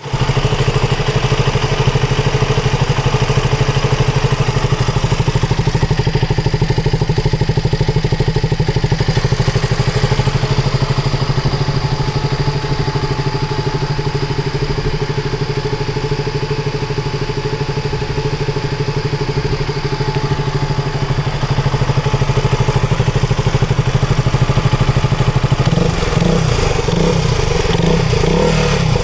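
KTM Duke 200's single-cylinder four-stroke engine idling steadily with its radiator cooling fan running; the engine note turns rougher and fuller near the end.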